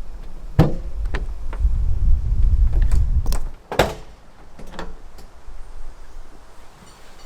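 Several knocks and thuds, like a door or lid being handled, with a low rumble for about two seconds in the middle; the loudest thud comes near the middle.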